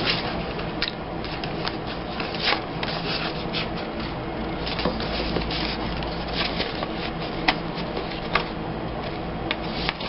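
Paper and card stock being handled and slid about on a tabletop: rubbing and rustling, with scattered light taps and clicks, over a low steady hum.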